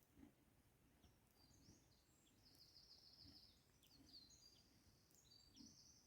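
Faint songbird singing: a string of high chirps and short trills, with a few soft low thuds underneath.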